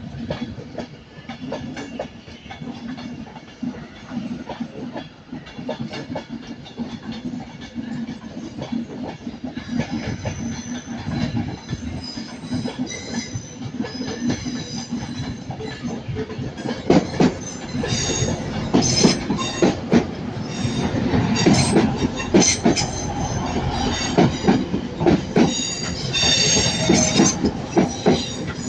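Train wheels running through the station, with squealing from about ten seconds in and rapid clicking and knocking over rail joints that grows louder through the second half.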